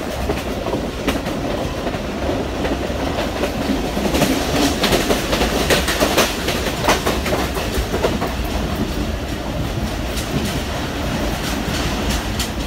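Passenger train carriage running at speed: a steady rumble with irregular clickety-clack of the wheels over the rails, busiest in the middle.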